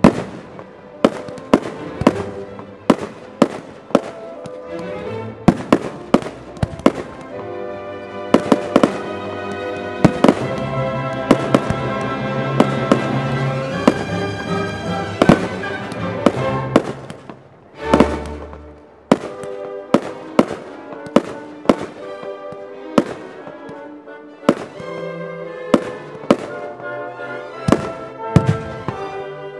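Fireworks display: aerial shells burst in a rapid series of sharp bangs, one or two a second, with a deep boom a little past halfway, over music playing throughout.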